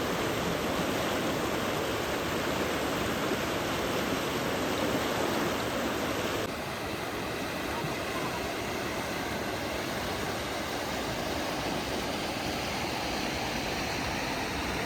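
Rushing floodwater, a steady noisy rush. About six and a half seconds in it shifts abruptly and becomes slightly quieter.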